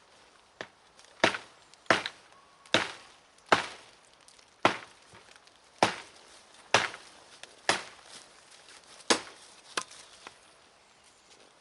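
A tool striking wood with about a dozen sharp blows, roughly one a second, as in chopping or hammering at a campsite.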